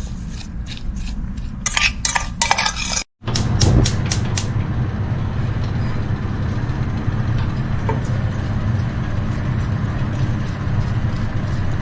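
A spoon stirring blueberries, sugar and water in a pot, clinking against the sides in quick knocks. About three seconds in the sound breaks off briefly, then a steady low hum runs on with a few last clinks.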